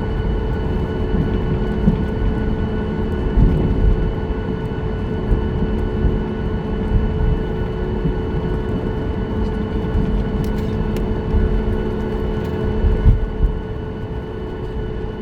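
Cabin noise inside a Boeing 737-9 MAX on the ground after landing: a steady rumble with a constant engine hum and a few short bumps from the gear rolling over the taxiway.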